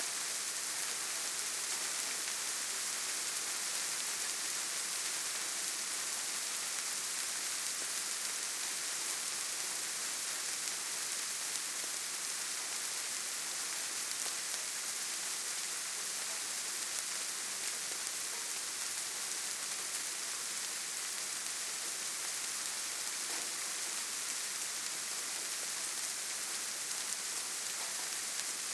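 Steady forest rain: an even hiss of rainfall, strongest in the high range, with no single drops or other sounds standing out.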